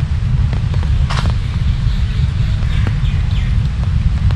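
Rain falling steadily, with scattered ticks of drops and a sharper splash about a second in, over a deep low rumble. A few short high chirps come near the three-second mark.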